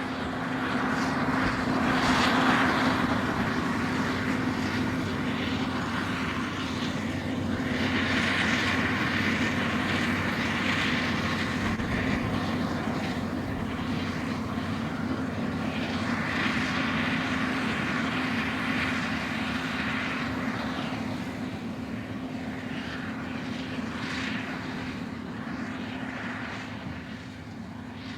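Steady engine drone: a constant low hum under a rushing noise that swells and fades several times, easing off near the end.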